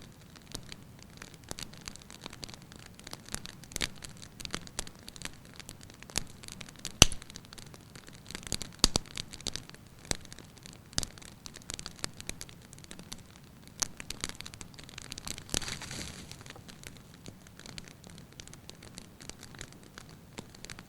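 Wood fire burning in a fireplace, crackling with irregular sharp pops and snaps over a soft hiss; the loudest pop comes about seven seconds in.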